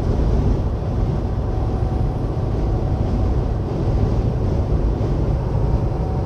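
Steady low rumble inside a semi truck's cab while driving at highway speed: engine and road drone.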